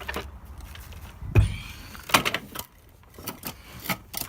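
Hoover Dustmanager upright vacuum cleaner's motor running with a low hum, which sounds quite bad. A heavy thump comes about a second and a half in, and the motor hum stops shortly after. Clicks and knocks of the machine being handled follow.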